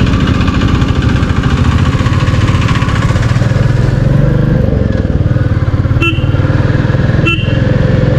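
Royal Enfield Classic 350's single-cylinder engine running steadily under way, a dense low thumping. Two brief sharp sounds break in about a second apart near the end.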